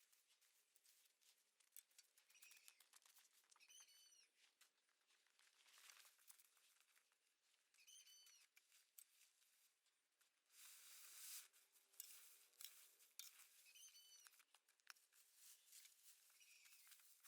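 Near silence with faint scattered clicks and rustling. A short high chirp recurs several times, a few seconds apart.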